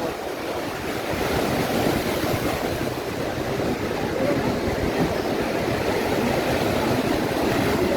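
Atlantic surf breaking and washing up the beach in a steady, unbroken rush.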